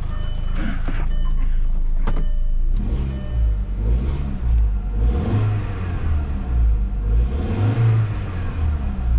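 2004 VW Golf's 2.0-litre four-cylinder engine idling, then revved up and let fall back several times from about three seconds in, with the air-conditioning compressor running on a newly fitted accessory belt.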